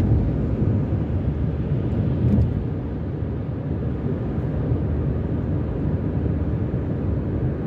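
Steady low rumble of a car driving at highway speed: road and engine noise.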